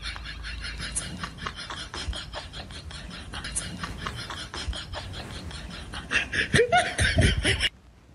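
A person laughing in quick breathy bursts, with a few louder thumps near the end before the sound cuts off abruptly.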